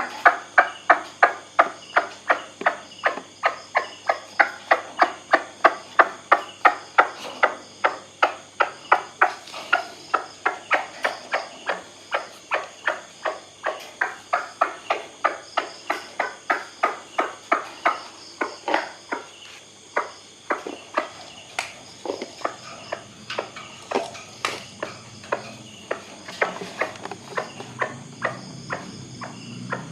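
White-breasted waterhen giving its repeated harsh 'kwak' call in a fast, regular series of about three notes a second. After about twenty seconds the calls thin out and become irregular.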